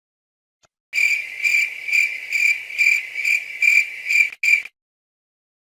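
A high, steady insect-like trill pulsing about twice a second, with a brief break near the end before it cuts off suddenly after about four seconds.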